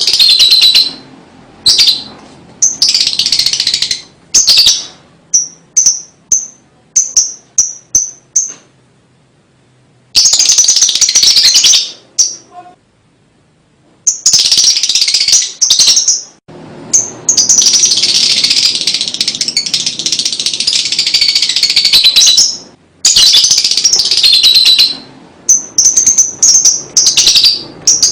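Lovebird 'ngekek' song: long bursts of very fast, high trilling chatter, the longest lasting about six seconds past the middle, alternating with runs of short repeated high chirps and brief pauses.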